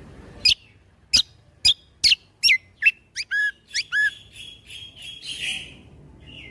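Kecial kombo (cucak kombo) songbird singing a string of loud, sharp, down-slurred whistles, roughly two a second. These give way to lower curling notes and end in a short buzzy rasp.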